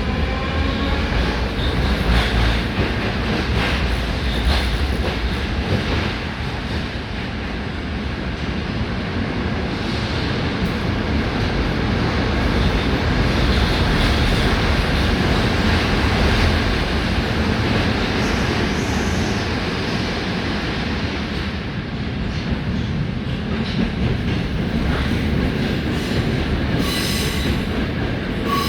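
81-740/741 Rusich metro train running between stations, heard from inside the car: a steady rumble of wheels on the rails with clickety-clack. A rising traction-motor whine fades out at the start, and a brief high squeal comes near the end.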